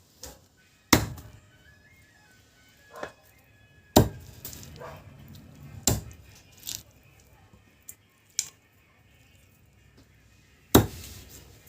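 Chicken meat being chopped into pieces with a blade on a cutting surface: about six sharp, irregular chops a second or more apart, some of them loud.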